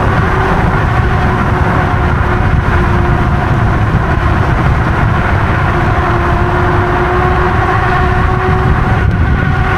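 Wind rushing over the microphone and road noise from a moving e-bike, with a faint steady whine running underneath.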